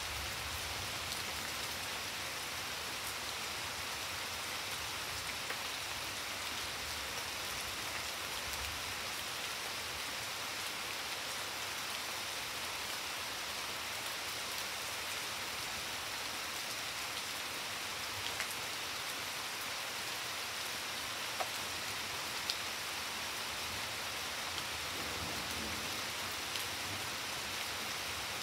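Steady rain falling on garden foliage and flagstone paving: an even hiss with scattered faint drop ticks.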